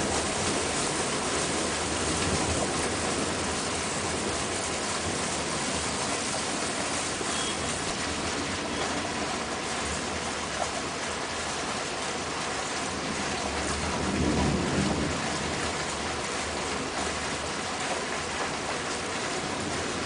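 Heavy rain falling steadily in a thunderstorm, with a low roll of thunder that rises and fades about two-thirds of the way through.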